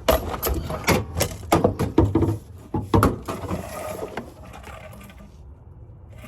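Irregular metallic clicks and clanks of hand tools being handled and worked, thickest in the first three seconds and quieter after.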